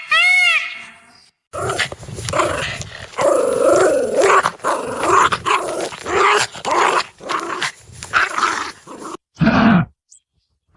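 Dog growling and snarling for several seconds, a rough, wavering sound, followed by a single short bark near the end.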